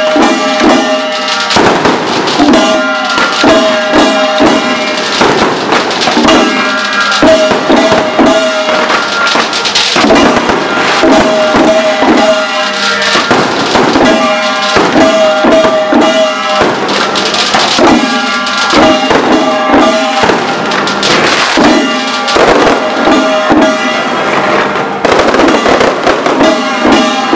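Aerial fireworks in a continuous barrage, a rapid run of launch thumps, cracking bursts and crackle with no pause. A repeating melody plays under the bangs.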